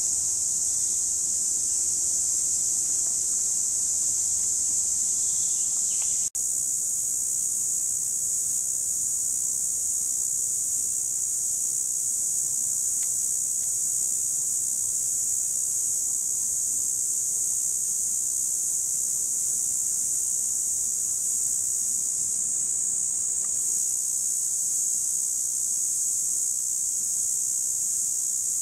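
Cicadas singing: a continuous shrill, high-pitched buzz that holds steady, broken by a momentary dropout about six seconds in.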